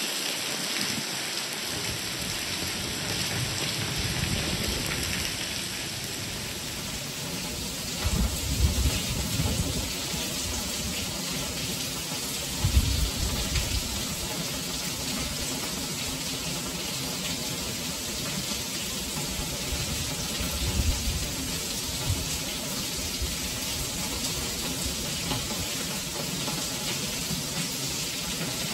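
Heavy rain falling on a stone-paved street, a steady hiss, with short low rumbles about 8, 13 and 21 seconds in.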